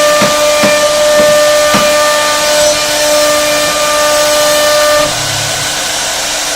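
CNC router spindle cutting into wood, a steady high whine over a rasping haze, with a few short knocks about every half second near the start. About five seconds in, the whine drops away and the sound gets a little quieter.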